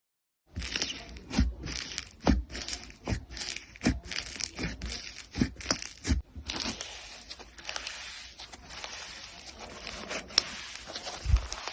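Crunchy slime being squeezed and pressed, starting about half a second in with a quick series of sharp crackles and pops. From about six seconds in it turns to a denser, continuous crackling.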